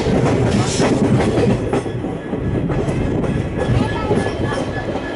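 Passenger train running into a station, heard from an open coach door: the coach wheels clatter over rail joints and points, with a faint high wheel squeal joining in about halfway through.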